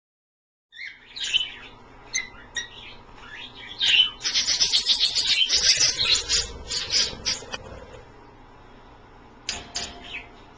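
Pet budgies and cockatiels chirping, in short high calls at first, then a dense run of rapid chirps from about four seconds in to seven and a half.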